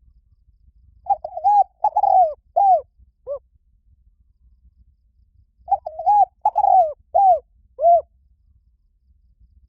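Spotted dove cooing: two phrases about four seconds apart, each a quick run of four or five short coos.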